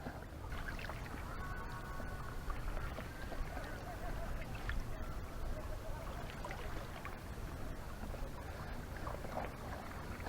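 Paddling a hard-shell kayak on calm water: soft paddle dips, splashes and drips over a steady low rumble.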